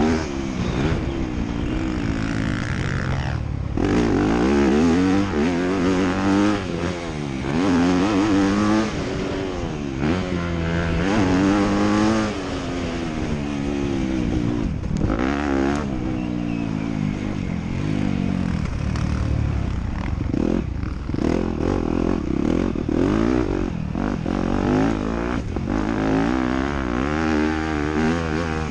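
Dirt bike engines racing on a motocross track, the engine notes revving up and falling back again and again as the bikes accelerate and back off.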